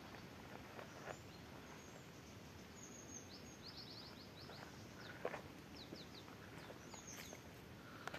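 Quiet outdoor background hiss with a small bird chirping in quick runs of short high notes through the middle, and a few soft knocks, the loudest about five seconds in.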